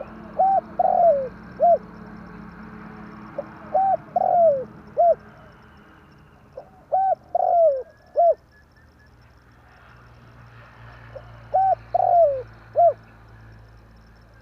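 Spotted dove cooing. It gives four call phrases, each of a few short coos around one longer falling note, repeated about every three and a half seconds.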